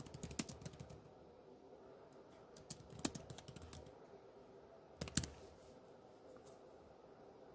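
Computer keyboard typing: a quick run of key clicks at first, then short clusters of keystrokes about three and five seconds in, the last one loudest.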